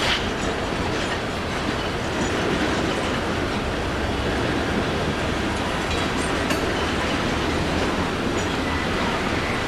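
Train rolling on the rails: a steady rumble with wheel clatter, and a faint high squeal of wheels near the end.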